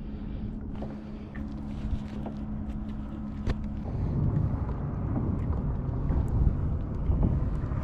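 A boat's motor running on the water, with a steady low hum at first and a louder low rumble building from about four seconds in. Wind on the microphone.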